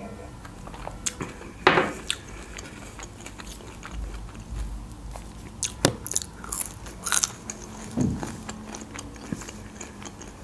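Close-miked eating sounds: a swallow of a drink near the start, then crunchy bites and chewing of crispy French fries, heard as scattered sharp crisp snaps.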